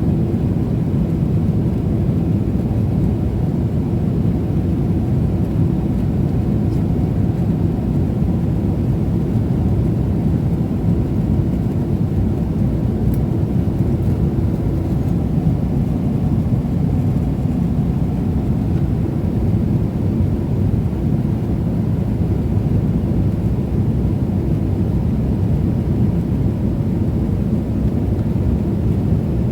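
Steady low rumble of cabin noise aboard an Emirates Boeing 777-300ER airliner in flight, unchanging throughout.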